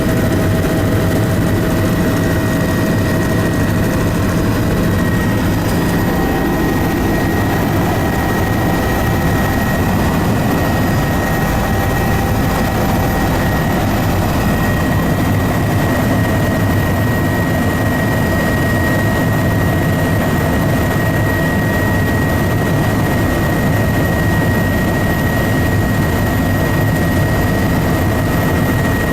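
Aircraft engine running steadily in flight: a constant low drone with a thin, steady high whine over it.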